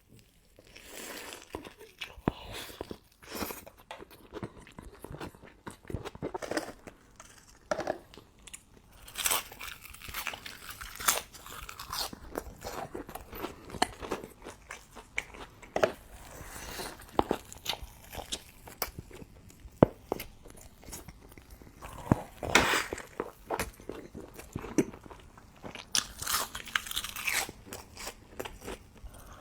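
Close-miked eating of a burger: bites, wet chewing and mouth smacks, with some crunch, coming irregularly, with louder clusters of bites now and then.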